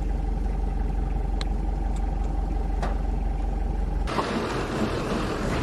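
Safari vehicle's engine running steadily with a low, even hum. About four seconds in, this gives way abruptly to a rushing noise.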